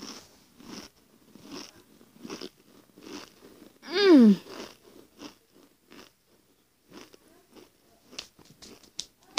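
Crunchy chewing of a mouthful of six pickle-flavoured Pringles crisps, about one crunch every three-quarters of a second, thinning out and getting fainter in the second half. About four seconds in comes one loud, falling hum of the voice, made with the mouth closed and full.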